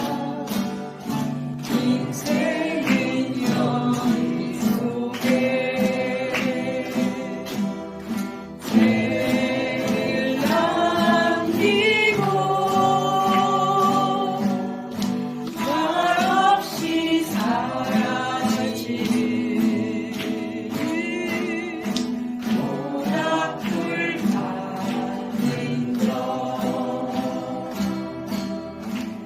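Elementary-school students singing together in unison to steadily strummed guitars.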